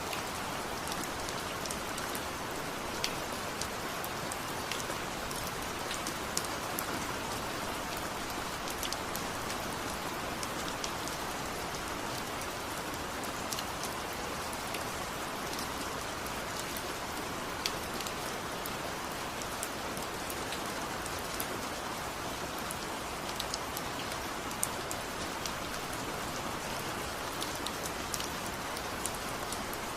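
Steady rain falling, with scattered sharp drop ticks through the even hiss.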